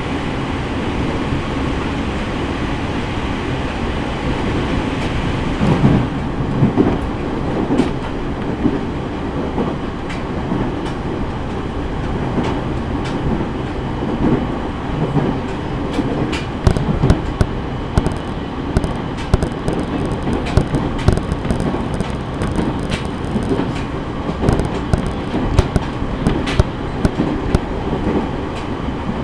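Running noise of a JR East E501 series electric train heard from inside the car: a steady rumble of wheels on rail. Many short clicks and knocks from the track come through, more of them in the second half.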